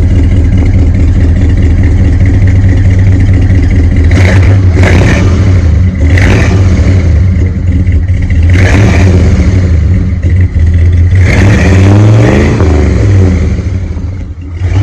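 Old truck's engine running loud and being revved with the throttle, surging about four times and settling back between blips.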